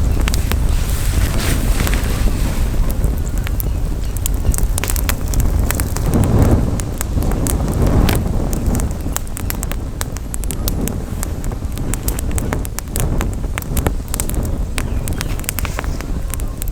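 Campfire crackling, with many sharp pops and snaps close together, over a steady low rumble of wind on the microphone that swells briefly about halfway through.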